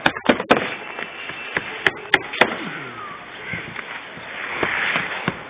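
Sharp, irregular knocks and clacks from work on a tiled roof, several blows a second apart, with a scraping, rustling swell near the end.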